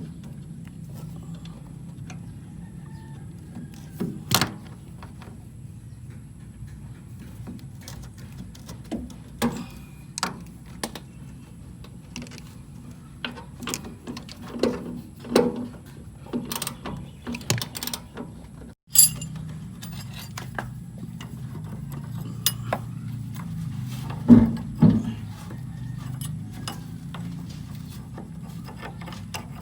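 Metal hand tools and parts clinking and clanking at irregular intervals during work on a car's engine, over a steady low hum. The loudest knocks come about 4 s in and about 24 to 25 s in.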